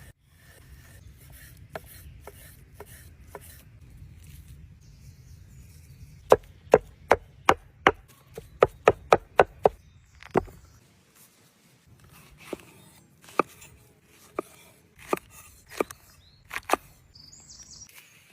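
Knife chopping on a wooden board: a quick run of about a dozen sharp chops, two to three a second, partway through, then scattered single chops.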